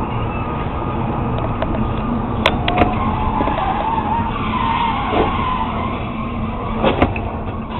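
Vehicle road noise through a dashcam, with tires screeching for about two and a half seconds and a few sharp knocks, around the start of the screech and again near the end.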